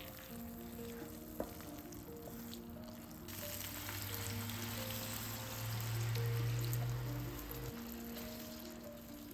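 Food frying in a pan, a steady sizzle that grows louder about three seconds in, with a low hum alongside that stops near the end.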